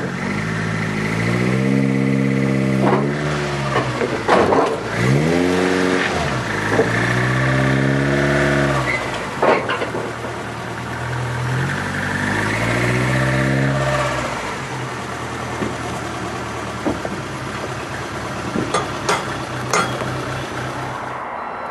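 Toyota AE86 Sprinter Trueno's four-cylinder engine revving up and dropping back three times as the car reverses, then running steadily at low revs. A few sharp knocks come through in between.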